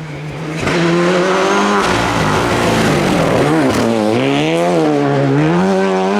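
Rally car engine at hard throttle, coming on loud just under a second in. Its note swings down and back up a few times as the driver lifts and changes gear through the stage.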